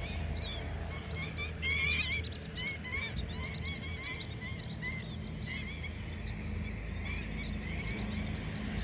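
A flock of birds calling in flight: many short, arched calls overlapping, thickest in the first few seconds and thinning out afterwards, over a low steady hum.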